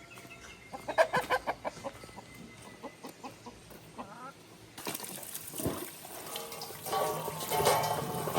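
Chicken clucking, a quick run of short calls about a second in. About five seconds in, water starts running and goes on steadily.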